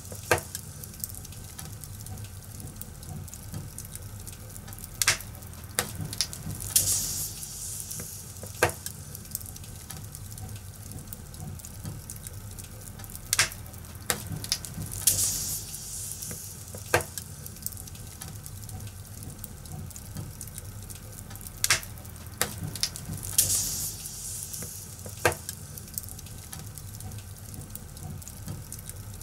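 Fire crackling, with sharp, irregular pops every second or few over a steady low rumble and occasional swells of hiss.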